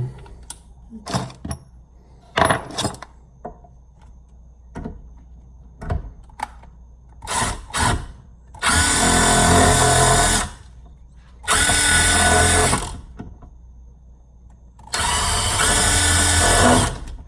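Cordless drill boring a small pilot hole for a lag bolt, running in three bursts of a second and a half to two seconds each after a few light clicks of handling.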